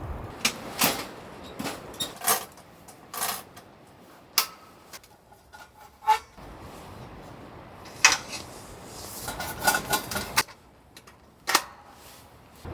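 Irregular sharp clicks and knocks, about a dozen spread unevenly, like small hard objects being handled and set down.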